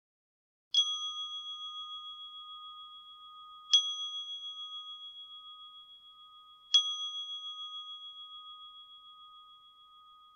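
A meditation bell struck three times, about three seconds apart; each strike rings on with a steady high tone and slowly fades, its loudness wavering as it dies away.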